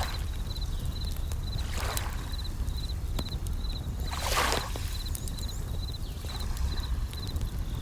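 Bell crickets (suzumushi) chirping in short high trills repeated over and over, with a campfire crackling in sharp clicks and waves washing in, one louder wash about four seconds in.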